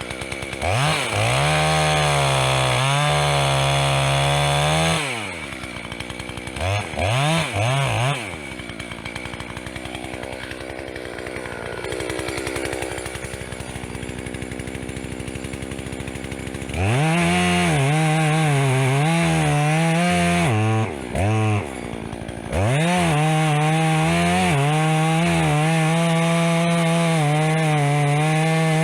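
Two-stroke chainsaw revved to full throttle, dropping back to idle with a few quick throttle blips, then held at full revs again for long stretches in the second half, its pitch sagging and wavering as it runs.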